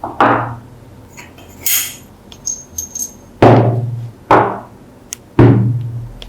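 Hammer strikes: one just after the start, then three more in the second half about a second apart, each ringing briefly. Light clicks and a short hiss come between them.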